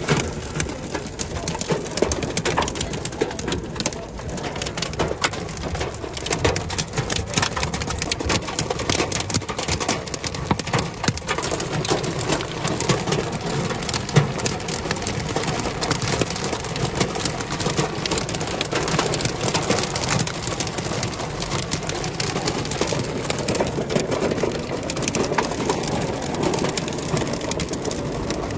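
Heavy hail and rain pelting a car, a dense, continuous clatter of many hits.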